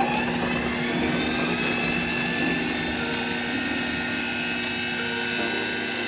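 A loud electric appliance motor running steadily with a whirring whine, its pitch rising as it spins up at the start.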